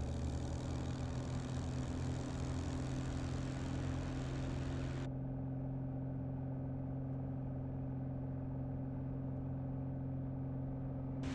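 Piper single-engine airplane's piston engine running steadily, heard from inside the cockpit. The hiss above the engine drone cuts off abruptly about five seconds in while the engine note carries on unchanged.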